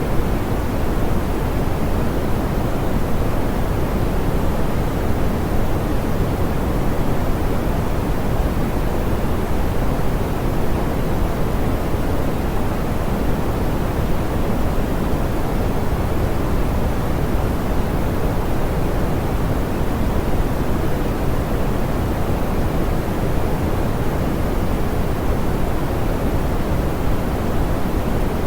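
Steady pink noise: an even, unbroken hiss weighted toward the low end, soft and smooth, with no changes.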